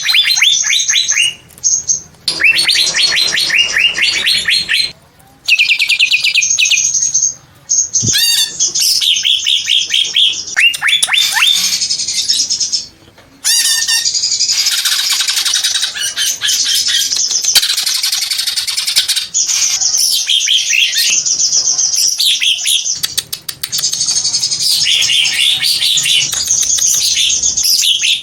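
Green leafbird (cucak ijo) singing: long, fast runs of high, rapidly repeated downward-sweeping notes, broken by short pauses in the first half and near-continuous in the second.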